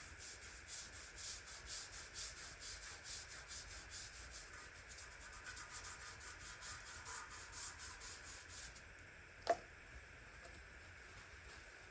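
Rhythmic scrubbing strokes on the wringer washer, about three a second, stopping about nine seconds in; a single sharp knock follows.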